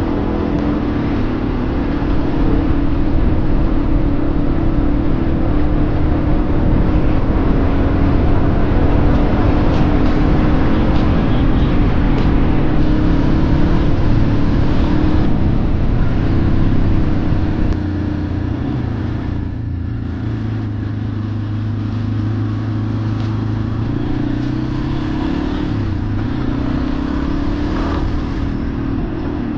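Motorcycle engine running steadily under way, with wind rush over the microphone. A little past halfway the sound drops in level and the engine settles to a lower note for several seconds.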